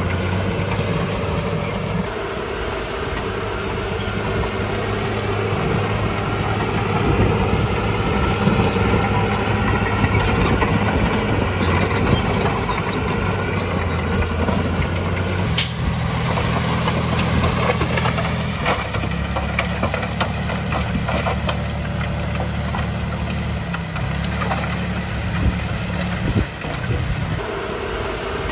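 Heavy diesel earthmoving machinery working: an engine runs steadily and changes speed several times, with scattered metallic clanks and one sharp knock a little past halfway.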